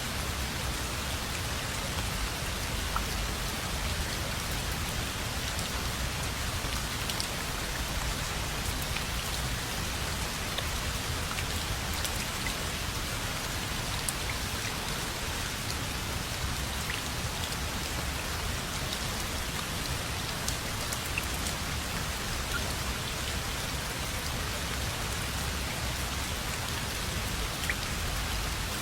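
Steady rain falling, a dense even patter of drops on a surface with scattered sharper drip ticks.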